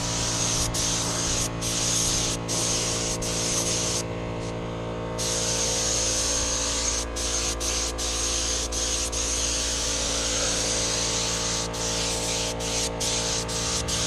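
Air spray gun spraying clear coat: a steady hiss of air and atomised paint, stopping for about a second around four seconds in and with several very short breaks where the trigger is let off.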